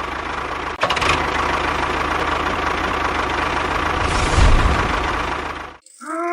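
A small engine running steadily with a low pulsing beat, a click about a second in. It cuts off abruptly near the end, followed by a short tone that rises and falls in pitch.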